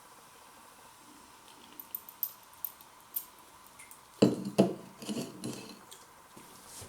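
Clicks and taps of drink cans and objects handled on a table, then two loud sharp knocks about four seconds in, followed by a short run of smaller knocks and rattles.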